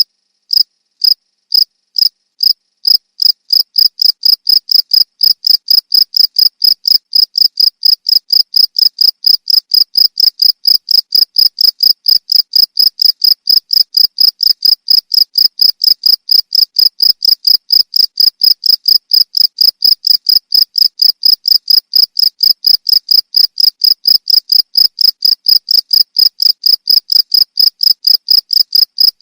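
A cricket chirping: a loud, even run of short, high-pitched chirps, about two a second at first and quickening to about three a second within the first few seconds.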